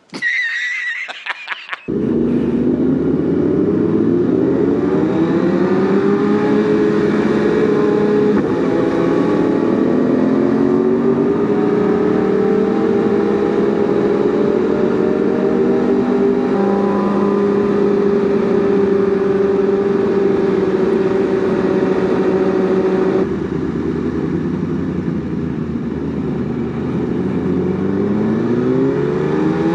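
BMW S1000RR inline-four sportbike engine heard from the rider's seat: it pulls up in pitch through the gears, shifting about eight seconds in, then holds a long steady cruise. About three quarters of the way through the throttle comes off and the note drops, then it climbs again near the end.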